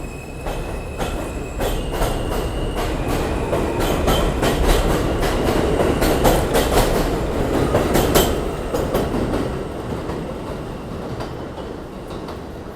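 New York subway train running past on the track, its wheels clacking over the rail joints in quick runs of clicks, with a faint high whine early on; the sound swells to its loudest about eight seconds in, then fades as the train moves away.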